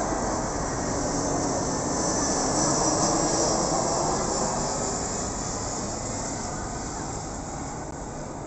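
Aircraft engine noise as a plane passes overhead: a broad, steady rumble that builds to its loudest about three seconds in, then slowly fades.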